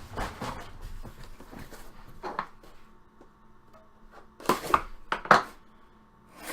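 Packaging being handled and opened: a run of crinkling and rustling, with a few louder, sharp swishing rustles about four and a half to five and a half seconds in.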